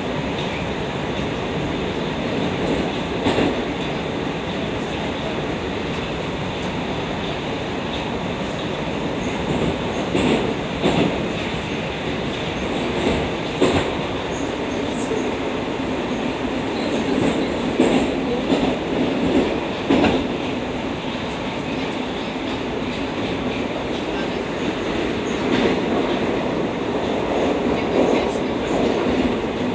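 Moscow Metro 81-760/761 'Oka' train running at speed through a tunnel, heard from inside the car: a steady rumble of wheels and running gear, with a sharper clack now and then as the wheels pass over rail joints.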